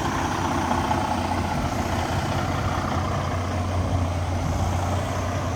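Detroit DD16 diesel engine of a Western Star 4900FA truck running steadily at idle, with a deep even hum.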